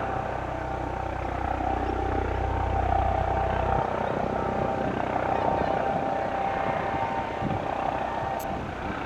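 Eurocopter EC155 helicopter running on landing, its twin turbines and rotors making a steady whine over a rushing noise. A deep low hum under it drops away about four seconds in.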